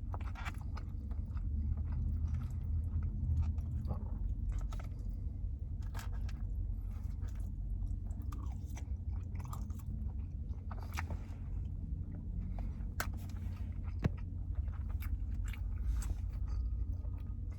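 Close-miked chewing of loaded fries topped with chicken, cheese sauce and pico de gallo: wet mouth smacks and soft crunches at an irregular pace, over a steady low hum.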